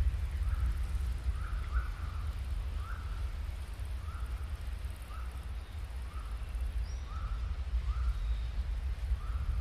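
A small bird repeating one short call note about once a second, over a steady low rumble.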